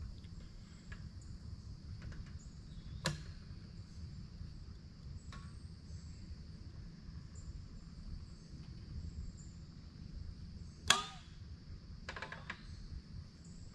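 Night insects, crickets, chirring in a steady high drone over a low rumble, broken by two sharp cracks of a campfire popping, the second one about eleven seconds in the loudest, with a few smaller crackles just after it.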